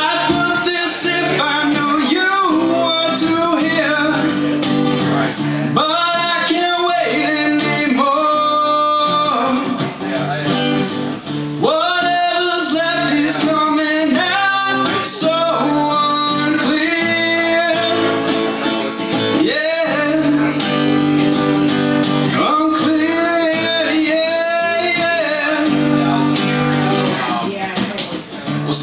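A man singing a song to guitar accompaniment, performed live.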